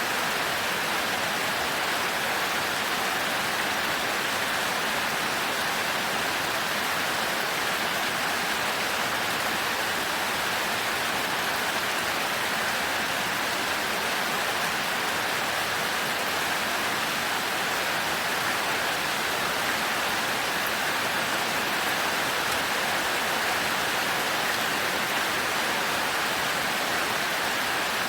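Heavy rain falling as a steady, even hiss, with no thunder and no separate drips or impacts standing out.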